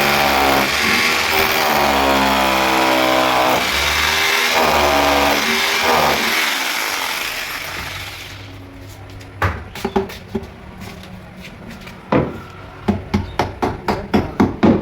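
A loud sound of shifting pitched tones that fades away over the first eight seconds, then hammering on wood: sharp knocks, scattered at first, then coming about three to four a second near the end.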